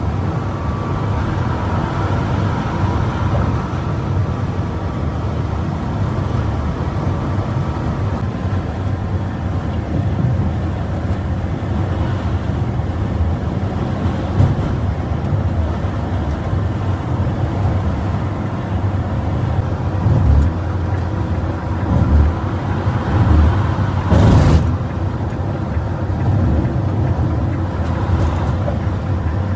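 Steady engine and road noise of a bus running at speed, with a few short knocks and bumps, the loudest about three-quarters of the way through.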